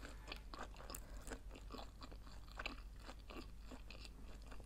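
A person chewing a mouthful of food with the mouth closed: faint, irregular crunchy and wet clicks.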